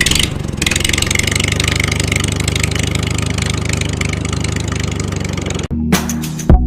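An engine running steadily with a fast, even beat, which stops abruptly about five and a half seconds in; music follows.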